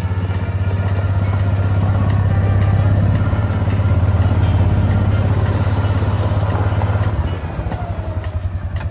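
Kawasaki Mule utility vehicle's engine running steadily under way, easing off slightly about seven seconds in.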